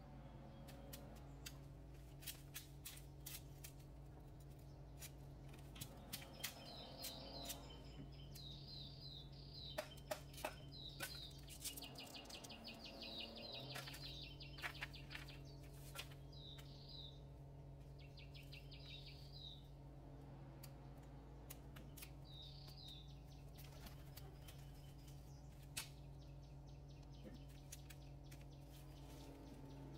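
Faint chirping of small birds in short repeated calls and trills, mostly in the middle of the stretch. Scattered sharp clicks and knocks come throughout, over a steady low hum.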